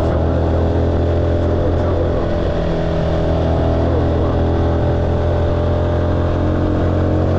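Car engine running steadily with road noise, heard from inside the cabin while driving uphill: a constant low drone.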